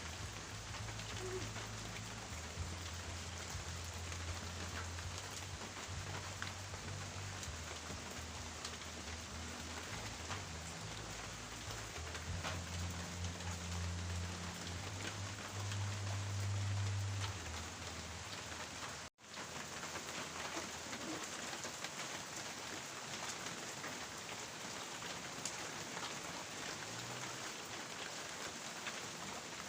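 Steady rain falling and pattering on surfaces, with a low rumble underneath for the first two-thirds. The sound drops out for an instant about two-thirds of the way through.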